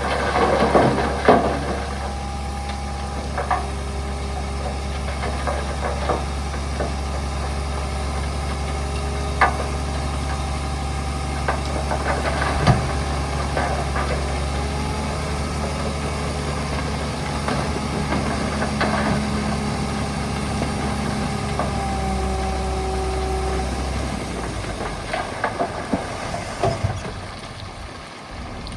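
Heavy diesel engine of earthmoving machinery running steadily at low speed, with a few sharp metallic clanks; the engine sound fades away over the last few seconds.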